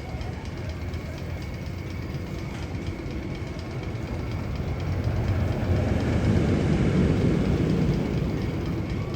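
Low rumble of a passing train that swells to a peak about six to eight seconds in, then eases off.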